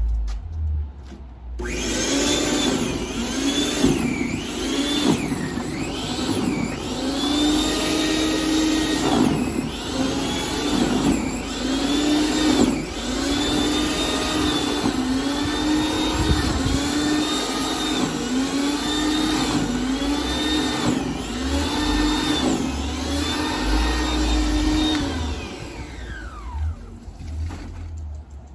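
Snowblower motor running hard, its pitch swelling up and dropping back every second or two. It starts about a second and a half in and cuts off near the end.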